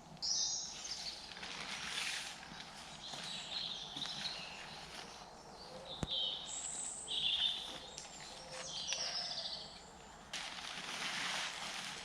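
Woodland birds singing short high phrases, over rustling and handling of camping gear as a hammock camp is packed up, the rustling loudest near the end.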